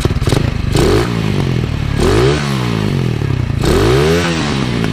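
Z200s motorcycle engine blipped three times from idle, each rev rising and falling back, through a stock muffler modified to a 51 mm inlet with its stock silencer insert fitted. Smooth and quiet.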